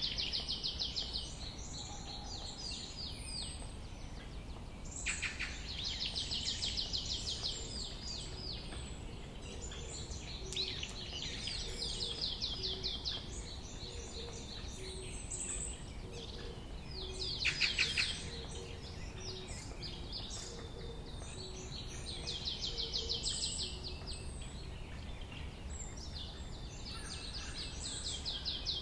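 Songbird singing: a rapid trilled phrase of two to three seconds, repeated about every four to five seconds, with fainter high chips between phrases over a steady background hum of outdoor noise.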